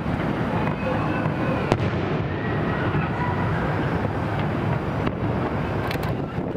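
Aerial fireworks bursting in a continuous rumble of overlapping booms and crackle. Sharp cracks stand out about two seconds in and again near the end.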